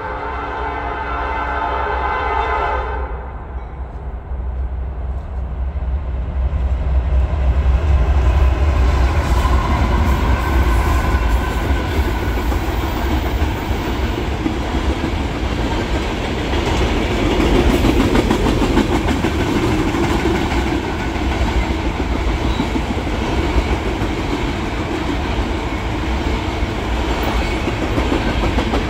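Norfolk Southern freight train: the locomotive's horn sounds a chord that ends about three seconds in, then the diesel locomotives pass with a low rumble that builds, followed by loaded tank cars with wheels clicking over the rail joints.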